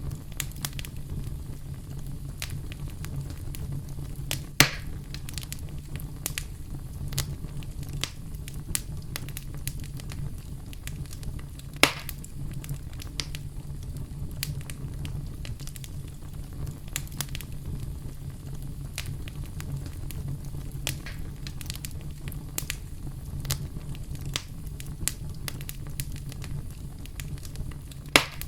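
Campfire crackling: a steady low rumble of flames with frequent small snaps, and three louder pops, about five seconds in, about twelve seconds in and near the end.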